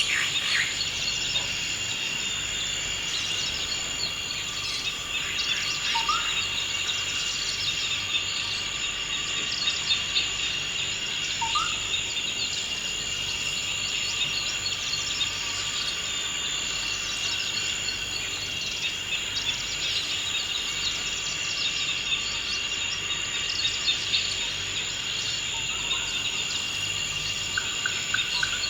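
Steady, high-pitched insect chorus trilling without a break, with a few scattered bird calls, including short rising whistles at about six and twelve seconds in.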